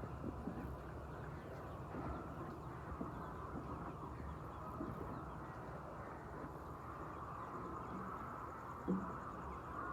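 A flock of laying hens clucking and calling together in a steady, dense chatter, with a brief louder sound near the end.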